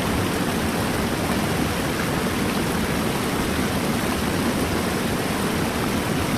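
Rushing river water, a steady, even sound with no breaks or separate splashes.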